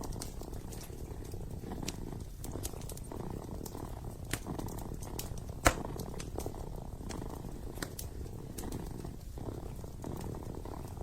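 Kitten purring steadily, with the scattered crackles and pops of a burning fireplace; one louder pop comes a little past halfway.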